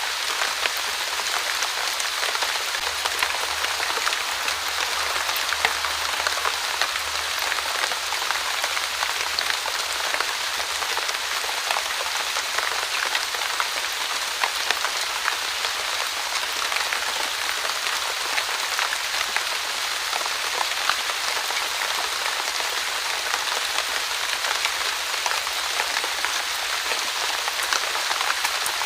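Steady light rain: an even hiss with many small drops pattering on a surface.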